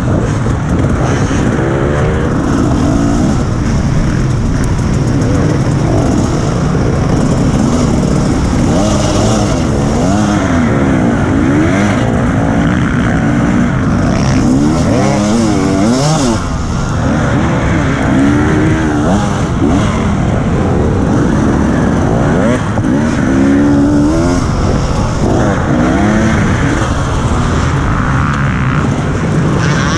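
Husqvarna TE300 two-stroke enduro motorcycle engine at race pace, revving up and dropping back again and again, its pitch rising and falling every second or two as the throttle is worked.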